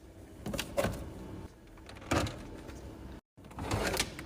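A few light knocks and clicks of food containers being handled and set down on refrigerator shelves. The sound drops out briefly a little after three seconds.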